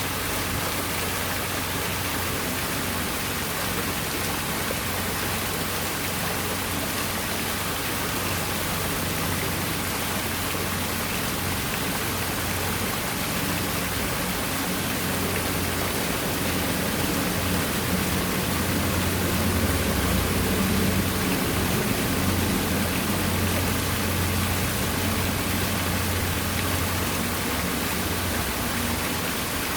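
Water pouring and splashing steadily down an artificial rock waterfall, with a low hum underneath that swells in the second half.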